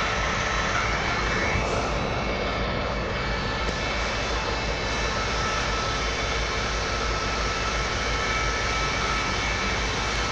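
A freight train rolling through a railway yard gives a steady, even rumbling noise with faint steady whining tones over it.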